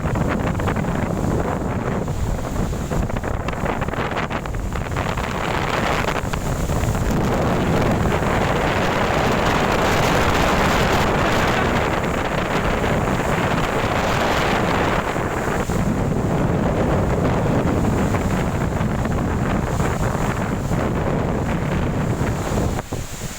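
Strong gusty wind in a windstorm, buffeting the microphone in a continuous rumbling roar that swells and eases with the gusts.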